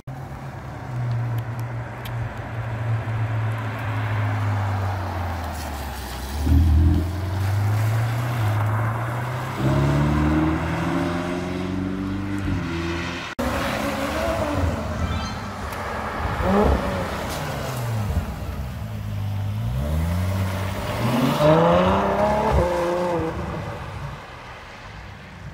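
Ferrari engines revving and accelerating hard: a steady low engine note broken by several sharp rising pulls that drop away between shifts. The sound changes abruptly to a second run of revs about halfway through.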